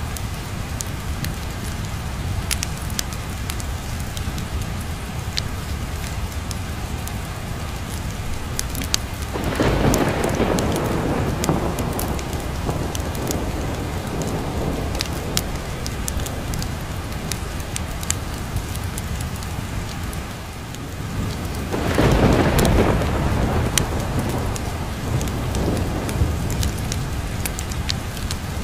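Steady rain with scattered sharp crackles, and two rolls of thunder, one about ten seconds in and a louder one a little past the twenty-second mark, each swelling and fading over a few seconds.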